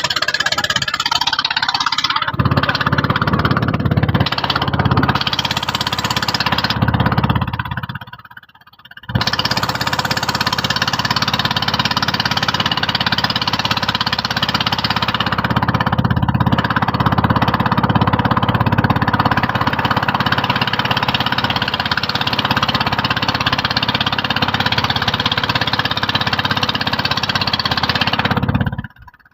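Small boat's engine running steadily under a dense rushing noise of strong wind and water. The sound drops away briefly about eight seconds in and again near the end.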